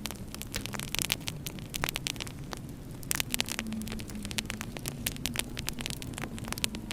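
Wood fire crackling in a fireplace: frequent sharp pops and snaps over a low steady hum.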